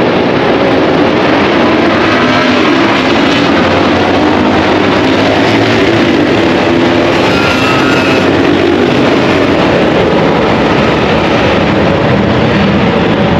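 BMW R 1250 GS Adventure's boxer-twin engine running at a steady road speed, mixed with heavy wind rush over the microphone.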